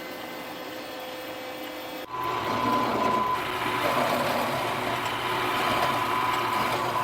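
Milling machine running with a steady whine. About two seconds in, the sound jumps louder, with a higher whine and a rough cutting noise, as the end mill takes the finishing pass around the profile of the part.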